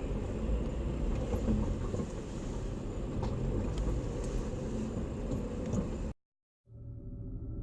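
Steady low rumble of a vehicle on the move, engine and road noise heard from inside the cab, with a few faint clicks. About six seconds in it cuts off abruptly. After half a second of silence a different low hum with steady tones fades in.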